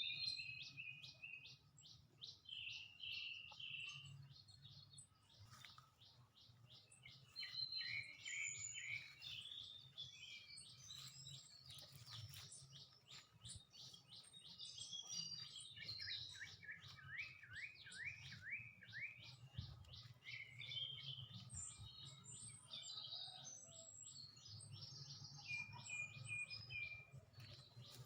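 Several small birds chirping and trilling together, with fast repeated chirp series and short calls overlapping throughout, quietly, over a faint steady low hum.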